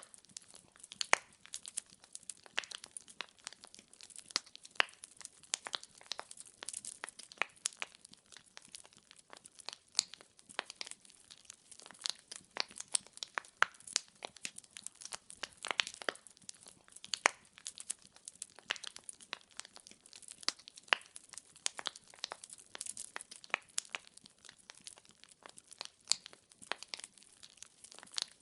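Firewood burning and crackling: irregular sharp pops and snaps, several a second, over a faint steady hiss.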